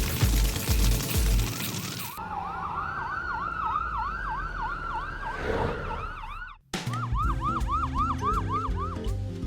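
Music with a heavy beat gives way to a police siren yelping rapidly, about five sweeps a second. It breaks off for a moment, then starts again over the music.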